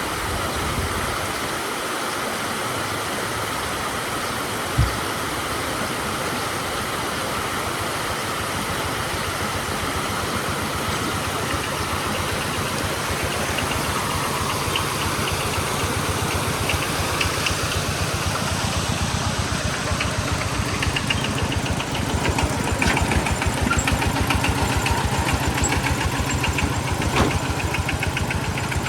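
A motor engine running steadily, growing somewhat louder in the second half, with one short thump about five seconds in.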